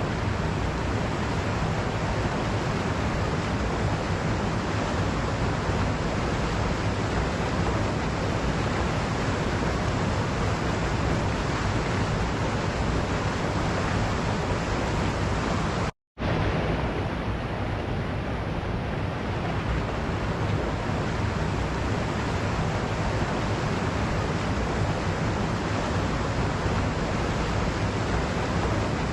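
Waterfall: a steady rush of falling water. It cuts to silence for an instant about halfway through, then resumes.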